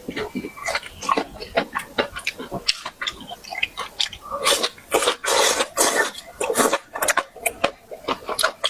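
Close-miked eating sounds: wet chewing and lip-smacking with irregular crisp clicks, growing denser and louder about halfway through.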